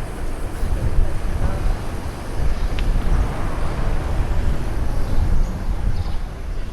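Wind buffeting the microphone of a bike-mounted camera while riding, a loud, uneven low rumble, with a faint seaside and street background under it.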